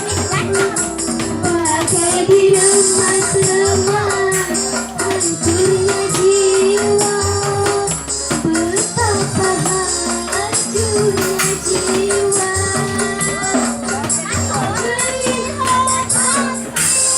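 Live band playing through a loud PA sound system, with a jingling tambourine over a wavering melody line, a held low note and bass.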